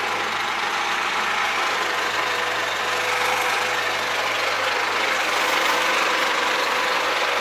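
MAZ-5440 truck's diesel engine idling steadily, heard up close with the cab tilted. The engine has a knock on the right side, which the driver puts down most likely to valve clearances needing adjustment.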